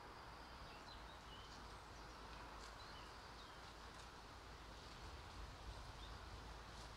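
Quiet outdoor ambience: faint, scattered short bird chirps over a low, steady background rumble.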